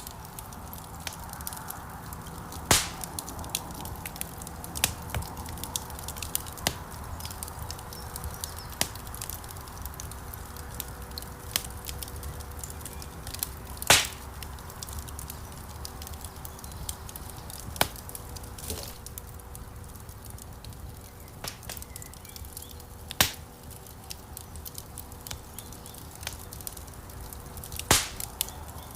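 Wood fire crackling in a stone fireplace: a steady low rush of flames with frequent small crackles and four sharp, louder pops, the loudest about halfway through.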